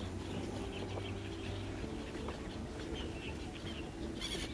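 A flock of black-headed gulls calling, many short scattered calls heard faintly over a low steady background.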